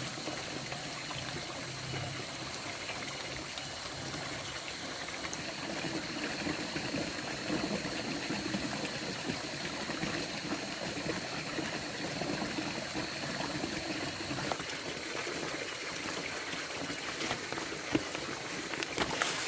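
Water trickling steadily, with a steady high-pitched drone of insects over it and a single click near the end.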